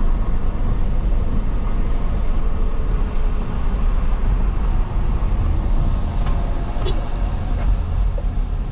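Steady low road and tyre noise from a car driving in light rain, heard inside the cabin, with a few faint ticks a little past the middle.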